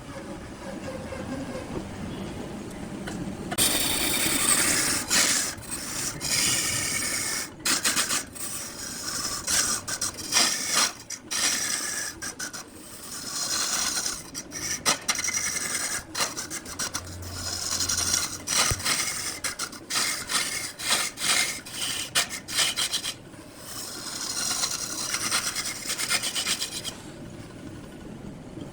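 A tool scraping and cutting wood spinning on a lathe, in stretches of a few seconds broken by short pauses.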